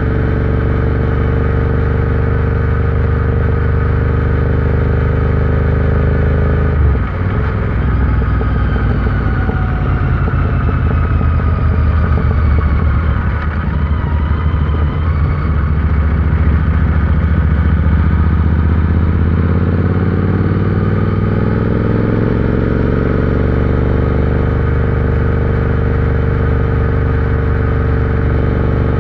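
Royal Enfield Interceptor 650 parallel-twin engine running while riding, at a steady engine speed. About seven seconds in the throttle closes and the engine note falls for several seconds. From about twenty seconds in the revs climb back up and hold steady again.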